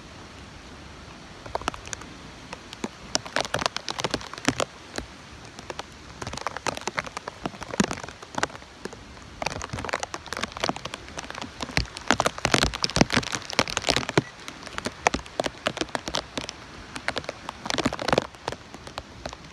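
Heavy tropical-storm rain, drops striking close by in a dense, irregular patter over a steady hiss. It comes in heavier spells around the middle and near the end.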